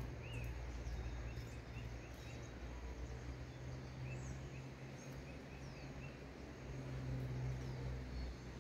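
Faint series of short, high, quick chirps from small birds in the foliage, coming in runs about half a second in and again from about four seconds in, with a few brief falling notes higher up. A steady low rumble of background noise runs underneath and is the loudest part.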